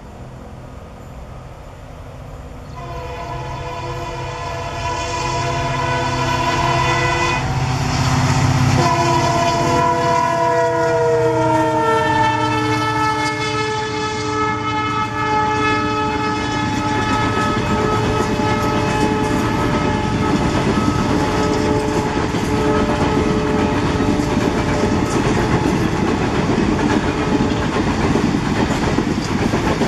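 A diesel-hauled express train passes at speed. The locomotive comes in with a steady multi-toned drone that drops in pitch as it goes by, a few seconds before the middle. The passenger coaches then clatter past over the rail joints.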